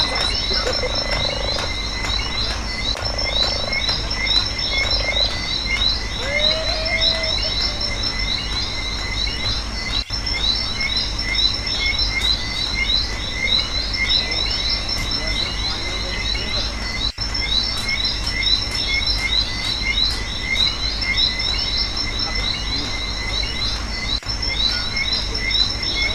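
Night chorus of frogs and insects: many fast chirping calls over a steady high trill, with a few lower calls in the first several seconds.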